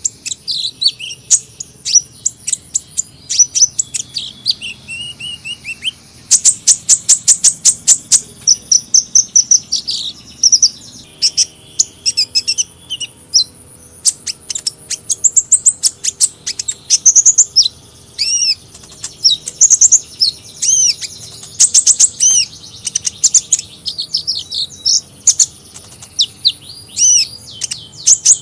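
Sunbirds chirping and twittering in quick high-pitched notes, with a fast run of sharp chips from about six to ten seconds in.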